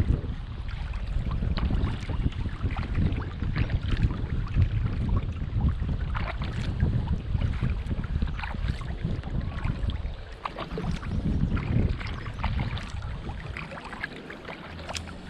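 Kayak paddling: paddle strokes splashing and dripping on the water, with wind buffeting the microphone in a low rumble that eases after about ten seconds.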